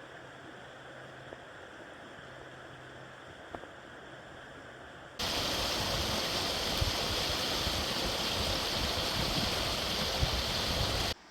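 Faint steady background with a low hum for about five seconds, then, after an abrupt cut, a river rushing steadily and loudly, cutting off suddenly near the end.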